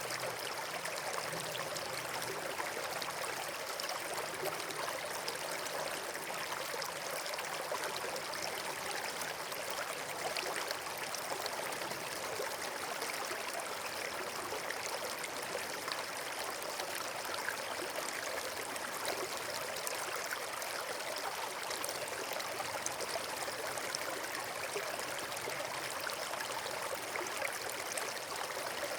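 Flowing water from a stream or small waterfall, a steady, even rush with no pauses.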